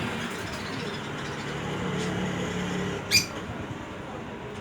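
A baby bird gives one short, sharp, high-pitched chirp about three seconds in, over steady background noise with a low hum.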